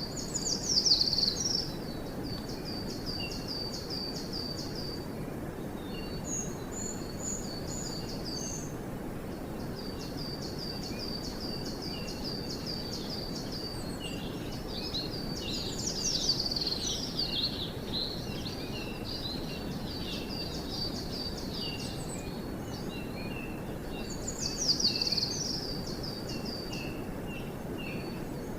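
Several small songbirds singing over a steady low hiss of forest background noise. One bird repeats a series of short, high notes, and three times a louder high phrase tumbles downward in a quick trill.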